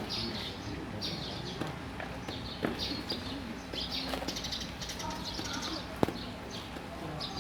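Small birds chirping again and again, over faint background voices. A single sharp click comes about six seconds in.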